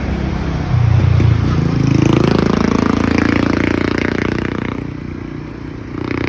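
A motorcycle engine accelerating past close by, its pitch rising for a couple of seconds, then fading away about five seconds in.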